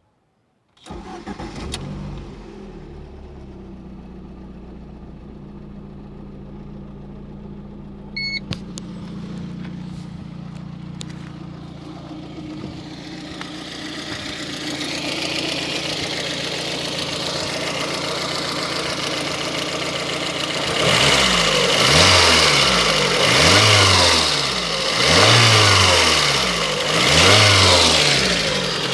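Lada Kalina petrol engine starting about a second in and idling steadily, then revved four times near the end, each rev rising and falling. The engine has just been rebuilt with new piston rings and a reground crankshaft, and the owner says the knock is gone.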